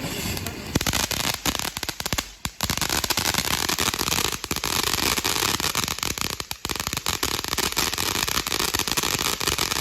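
TNT Fireworks 'Mad Trolls' fountain firework spraying, a steady hiss laced with dense crackling. It picks up under a second in and drops out briefly about two and a half seconds in.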